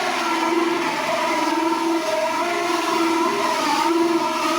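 Power drill spinning a hole saw through the bottom of a box, a steady whine whose pitch wavers slightly as the cutter bites.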